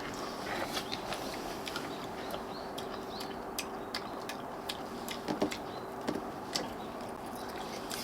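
A dog chewing and crunching food, a quick irregular run of crisp clicks: the 'sak-sak-sak' crunch.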